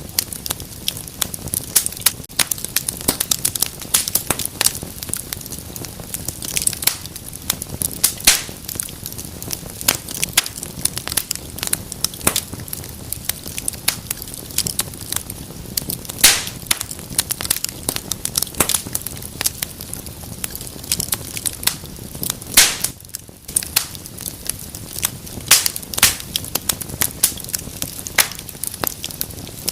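Wood fire burning in a fireplace, crackling with many irregular sharp pops and snaps over a steady hiss.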